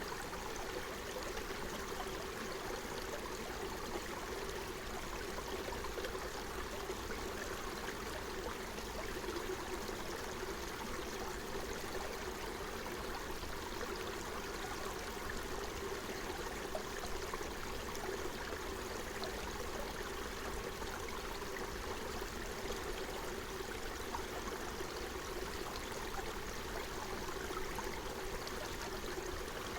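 Forest stream flowing and trickling over stones, a steady even rush of water.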